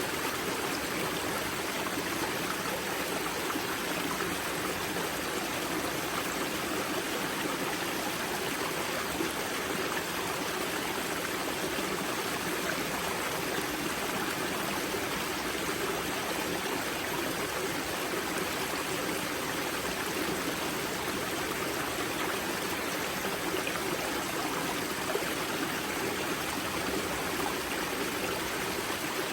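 Water of a karst spring rushing steadily over rocks where it emerges as a small river, a continuous even rush with some gurgling and trickling.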